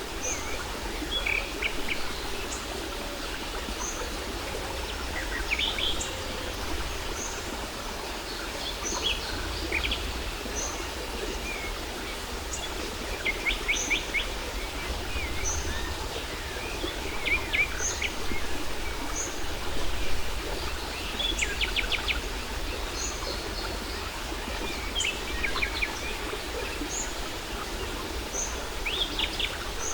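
Several birds chirping and singing, with a short high note repeating about once a second and quick trills now and then, over the steady rush of a waterfall.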